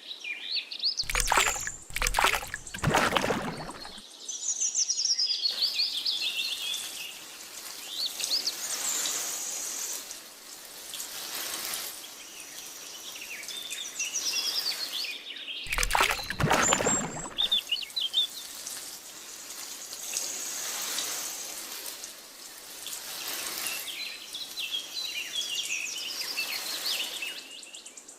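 Small birds chirping and singing throughout over a steady hiss, with a few short, loud sweeping sounds about a second in and again around sixteen seconds.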